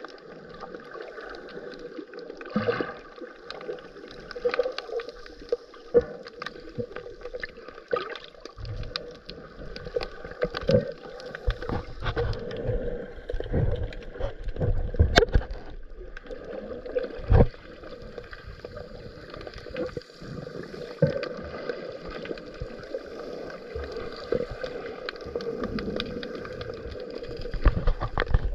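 Underwater audio from a GoPro in its housing during a scuba dive: a steady muffled hiss with many scattered small clicks and several low gurgling rumbles, most between about nine and seventeen seconds in.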